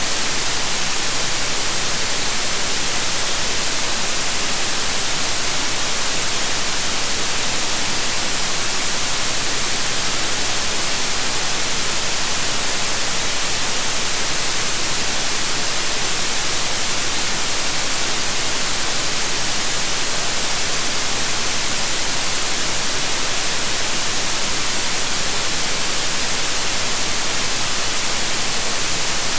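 Steady synthetic white noise: an even, unchanging hiss, bright and treble-heavy.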